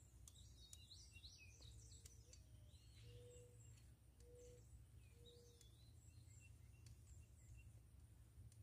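Near silence: faint birds chirping and calling in the background, over a low steady hum.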